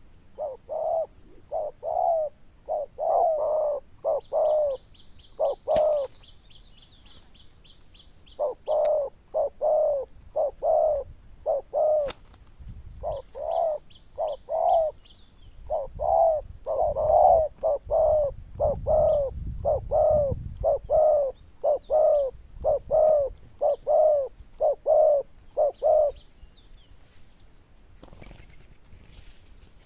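Spotted dove cooing loudly, a steady run of repeated coos in short groups that stops about 26 s in. Twice a faster, thin, high chirping series from a smaller bird sounds over it.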